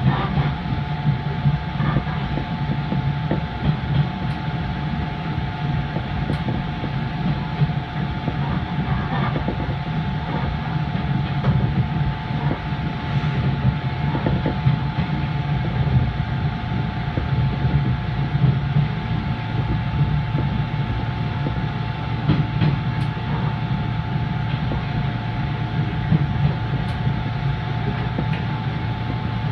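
JR East 583 series electric train running along the line, heard from on board: a steady rumble of wheels on rail with a constant hum and scattered clicks from rail joints.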